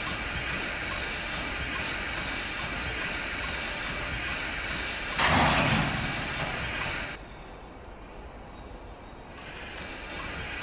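Steady running noise of a steam-hauled passenger train. About five seconds in, a loud rushing burst lasts about two seconds. Then the noise drops suddenly and a high insect chirp repeats about three times a second.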